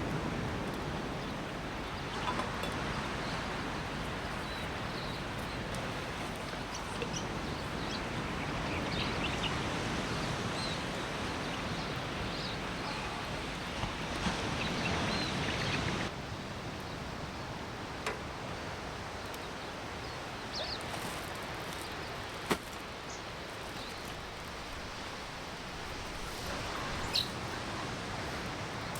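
Campfire crackling: scattered single sharp pops over a steady rushing background, with a few faint high chirps.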